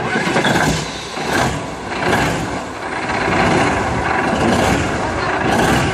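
A big engine running, its sound swelling and easing in loudness every second or so.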